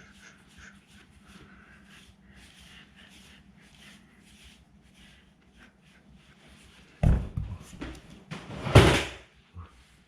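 Faint rustling, then two loud thumps or bangs, one about seven seconds in and a longer, louder one near nine seconds in.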